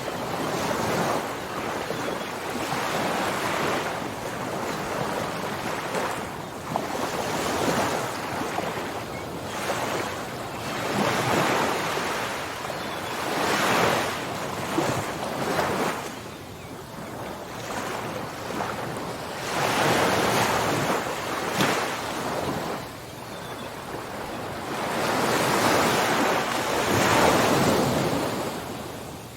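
Ocean waves breaking on a shore, the surf swelling and easing in slow surges every few seconds, with wind rushing over the microphone.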